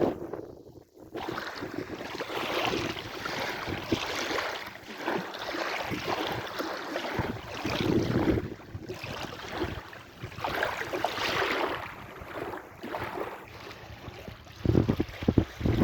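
Sea waves washing in and out, the noise swelling and easing every few seconds, with wind buffeting the microphone in low gusts near the end.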